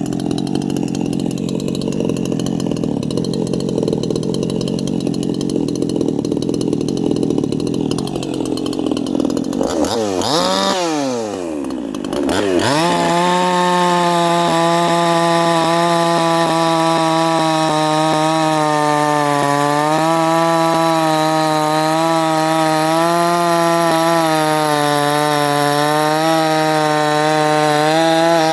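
58cc Chinese two-stroke chainsaw running at a lower, rougher note for about ten seconds, as if working in a cut. About ten seconds in it revs up and down a few times. Then it is held at full throttle with a high, steady, slightly wavering note until it cuts off at the end.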